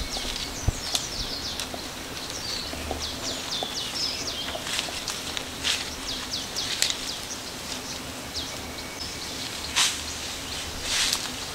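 Wild birds chirping in rapid, high, downward-sliding notes, with brush and leaves rustling in a few short bursts near the end as someone pushes through dense undergrowth.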